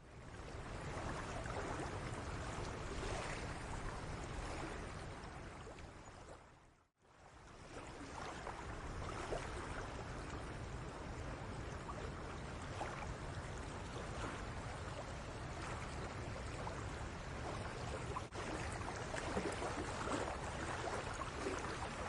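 Shallow seawater lapping and splashing at the shore of a cove, with a steady low rumble beneath. It fades out and comes back in about seven seconds in.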